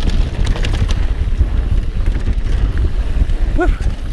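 Wind buffeting the action-camera microphone with the low rumble of a mountain bike rolling fast over a dirt trail, and a few short rattles. A short shouted 'woo' near the end.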